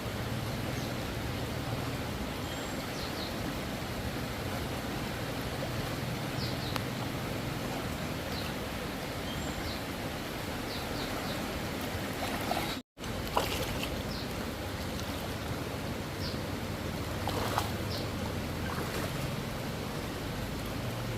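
Steady rushing of flowing water, like a swollen stream, with a few faint high chirps over it. It cuts out briefly about thirteen seconds in.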